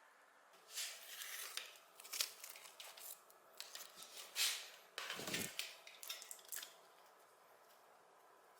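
Irregular clicks and short scrapes of small hard parts being handled, with one heavier knock about five seconds in, stopping near the end.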